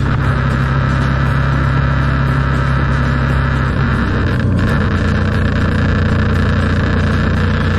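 A vehicle running with a steady low hum, its pitch shifting slightly about halfway through.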